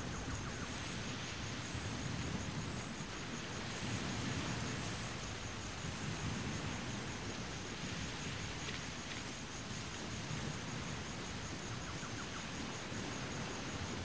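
Steady outdoor background noise: an even hiss with an unsteady low rumble underneath and no distinct events.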